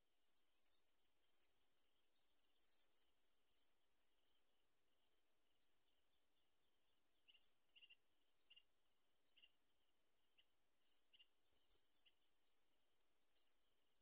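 Faint, high-pitched bird chirps: short rising notes repeated irregularly, about two dozen in all, over a thin steady high whine.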